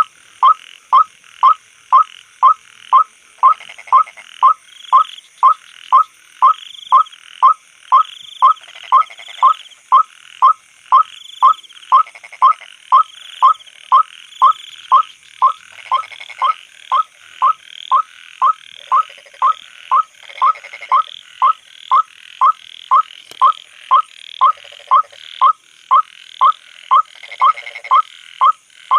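Monotonous repeated call of the white-breasted waterhen (ruak-ruak) type used to lure the birds at night: a short, sharply rising note repeated steadily about one and a half times a second. Behind it runs a fainter, higher-pitched night chorus.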